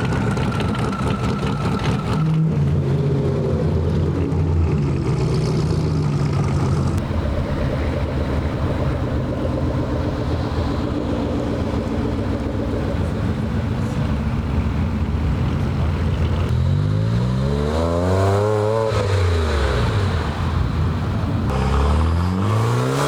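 Car engines running at low revs, then a car's engine revved up and eased back down twice in the latter half.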